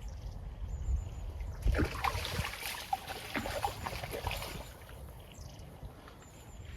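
Water splashing for about three seconds, starting a little under two seconds in: a hooked chub thrashing at the surface as it is played in to the landing net.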